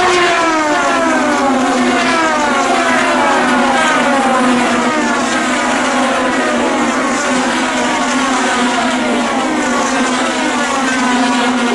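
A stream of IndyCar race cars with twin-turbo V6 engines passing at speed one after another, each engine note dropping in pitch as it goes by.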